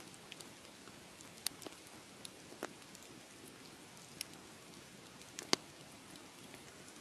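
Wood fire crackling: a faint steady hiss with scattered, irregular sharp pops, the loudest about five and a half seconds in.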